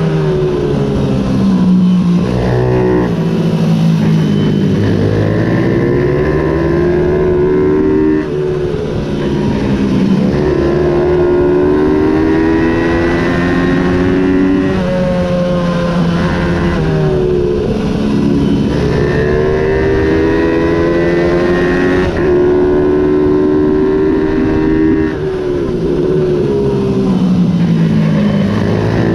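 Ohvale 110 racing minibike engine at racing speed, its pitch climbing as it accelerates, then falling away and climbing again several times.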